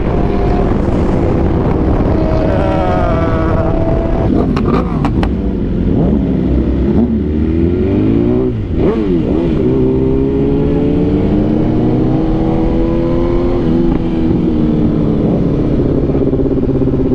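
Superbike engines running hard on the road, their pitch rising and falling with throttle and gear changes, with a dip and swoop in pitch about halfway through. Heavy wind rushes on the microphone underneath.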